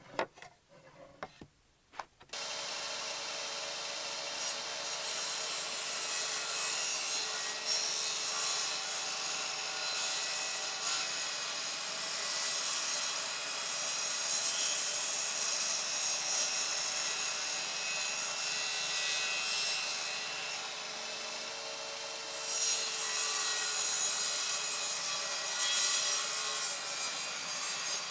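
A few light knocks, then from about two seconds in an electric power tool runs steadily on wood, cutting or sanding it, easing off briefly near twenty seconds in before picking up again.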